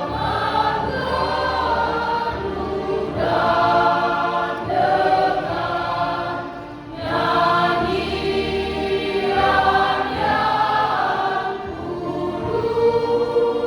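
Choir singing in parts, in phrases with short breaks between them; a long held chord begins near the end.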